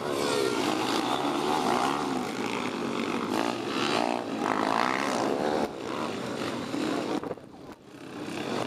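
Pit bike engines revving up and down, several at once, their pitch rising and falling through gear changes. They drop away briefly about seven seconds in, then build again.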